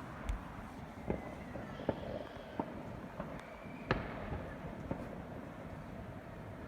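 Fireworks going off in the distance: a series of sharp bangs, about one a second, the loudest a little before four seconds in, with faint whistling tones gliding between them.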